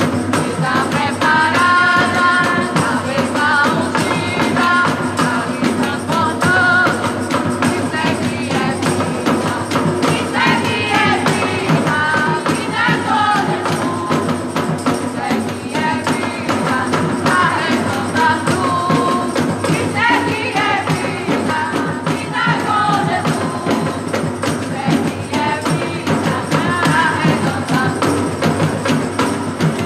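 Gospel worship band playing a song, with sung vocals over steady percussion.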